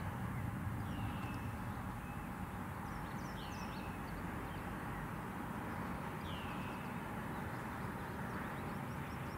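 Outdoor ambience: a bird gives short, downward-slurred call notes every one to three seconds over a steady background hiss.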